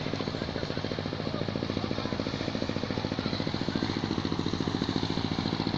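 Small fishing boat's engine running with a rapid, steady chug, growing slightly louder.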